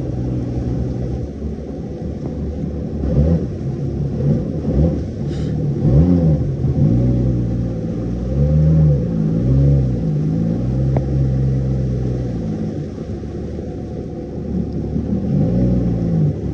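Jet ski engine running hard, its pitch repeatedly rising and falling as the throttle is opened and eased off.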